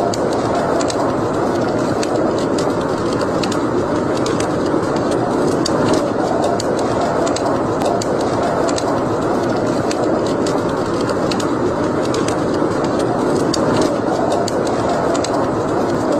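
Wood fire burning in a fireplace, crackling with frequent sharp irregular pops over a steady rushing roar.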